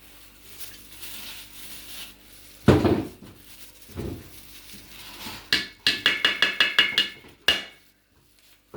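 Kitchen utensils knocking: a few loose knocks, then a quick run of about eight ringing metallic taps, like a utensil striking a steel pot or bowl, and one last tap.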